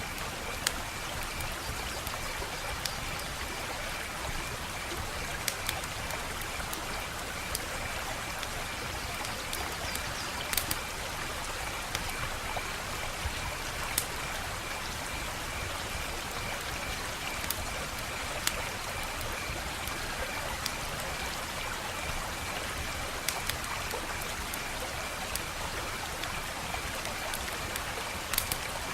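Wood fire crackling steadily, with sharp pops every second or two over a soft hiss. A faint, steady, high-pitched pulsing tone runs beneath it.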